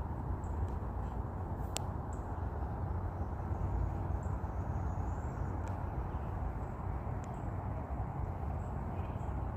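Steady outdoor background rumble and hiss, strongest in the lows, with one sharp click about two seconds in and a few faint high ticks.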